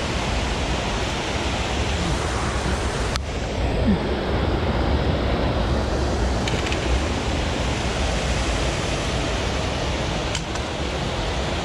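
Steady rushing of river water over a small waterfall.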